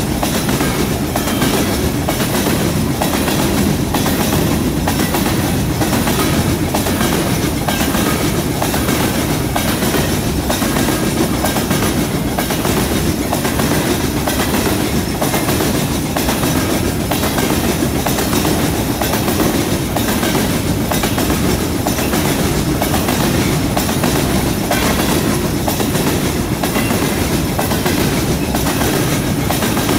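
Freight train of covered hopper cars rolling past: a steady rumble of steel wheels on the rails, with a running clickety-clack of the wheels over the rail joints.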